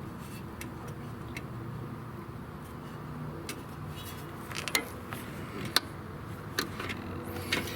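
Scattered light clicks and taps of small metal parts and tools being handled during mower engine work, over a steady low hum.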